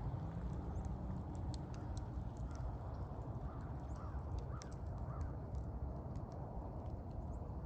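A bird calling about five times in short calls, roughly three to five seconds in, over a steady low rumble.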